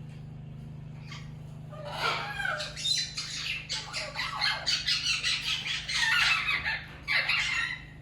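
Parrot squawking in a rapid run of harsh calls, starting about two seconds in and going on for about six seconds, with a short break before a last call near the end. A steady low hum lies underneath.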